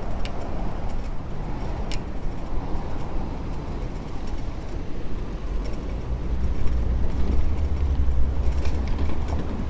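Wind rumbling on the microphone of a moving bicycle, with street traffic behind it; the rumble grows louder about six seconds in. A few sharp clicks and rattles come through, the clearest about two seconds in.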